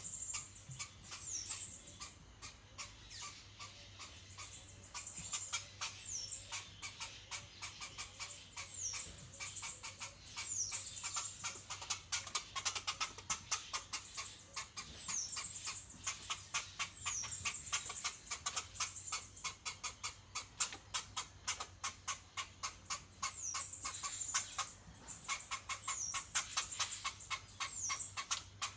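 A small animal giving short, high squeaks that fall in pitch, repeated every second or two, over fast irregular clicking.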